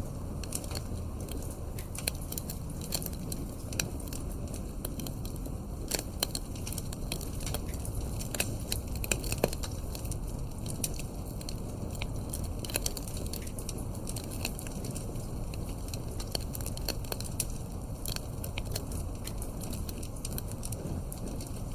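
Wood fire burning in a fireplace: a steady low rumble of the flames with irregular crackles and pops, a few sharper pops about six and nine seconds in.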